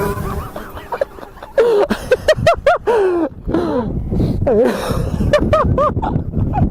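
Men's voices gasping, exclaiming and laughing without clear words, over a low rumble of wind buffeting the microphone.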